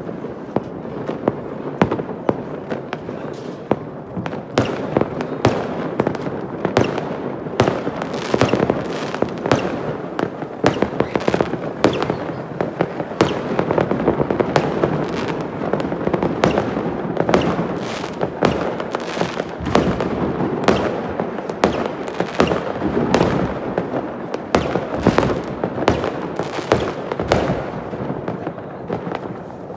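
Fireworks going off: many sharp bangs and crackles in quick, irregular succession over a continuous rumbling haze.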